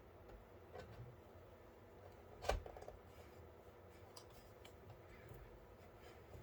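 Faint clicks and light knocks from PC case parts being handled, with one sharper click or knock about two and a half seconds in.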